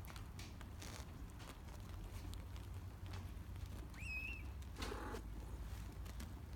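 Quiet outdoor background with a steady low rumble, broken by a single short bird chirp about four seconds in and a brief harsh call just under a second later.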